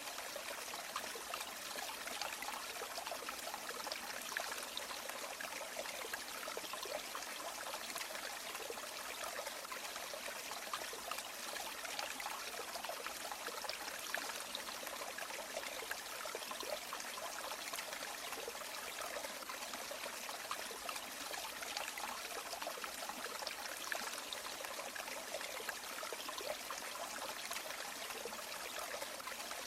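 River water flowing steadily, an even rush of running water that does not change or break.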